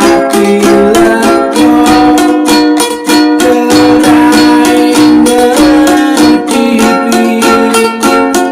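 Ukulele strummed in a steady rhythm, several strokes a second, ringing out chords.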